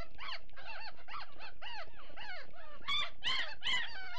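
Great Dane puppies whining and squealing in a steady run of short, rising-and-falling cries, about two or three a second, with a few louder, higher squeals near the end. They are eager for food while being fed by hand.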